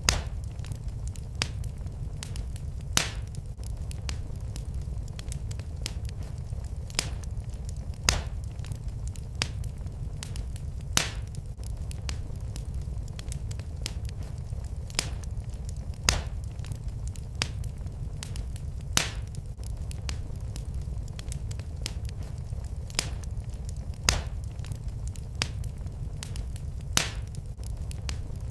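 Wood fire burning in a fireplace: a steady low rumble with sharp, irregular crackles and pops, a few of them louder than the rest.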